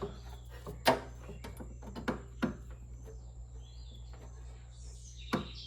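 A few sharp clicks and taps of plastic parts and screws being handled while reassembling a small ice maker's housing, the loudest about a second in and another near the end, over a steady low hum.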